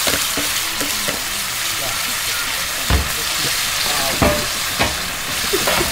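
Fiddlehead ferns (paku) and sardines sizzling as they are stir-fried in a pan, with a steady hiss of frying and a few sharp knocks of the stirring utensil against the pan, the loudest about three and four seconds in.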